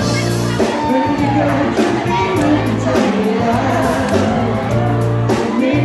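Live amplified pop music: a male lead singer with a full band, with the crowd cheering and singing along.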